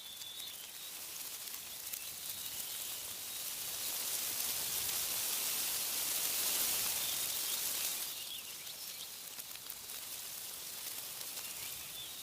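Wind gusting through tree leaves: a rustling hiss that swells from about two seconds in and drops away sharply about eight seconds in. Small birds chirp faintly at the start and near the end.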